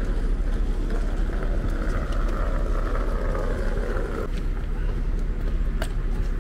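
Steady low rumble of a stationary TGV inOui train standing at the platform, with a sharp click near the end.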